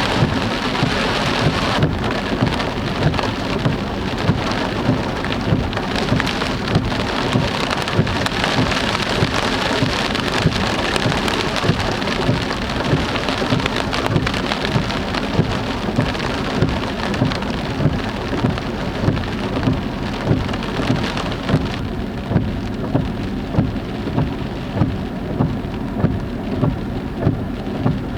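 Heavy rain pouring down in a dense, steady hiss, with a regular soft thump about three times every two seconds. About three-quarters of the way through, the hiss loses some of its high end.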